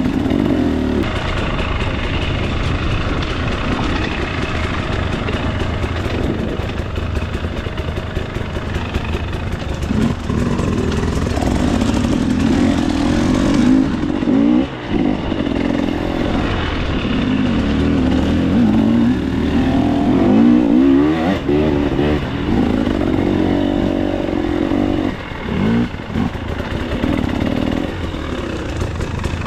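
2024 KTM 300 XC-W's single-cylinder two-stroke engine revving up and down as the dirt bike is ridden along a trail, with the throttle shut off briefly a few times.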